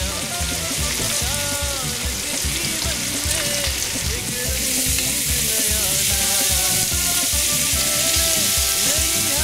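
Onions, garlic and green pepper sizzling in hot oil in a wok as they are stirred, with background music with a steady beat.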